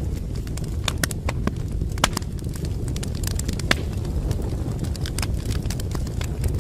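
A fireplace fire crackling, with irregular sharp pops and snaps over a steady low rumble; the strongest pops come about one, two and three and a half seconds in.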